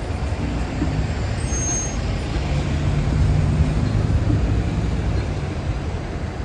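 A city bus's diesel engine running in street traffic: a steady low drone that swells a little in the middle.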